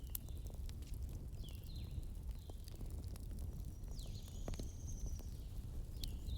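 Wood fire burning in a fireplace: scattered crackles and pops over a low steady rumble, with a few short high chirps.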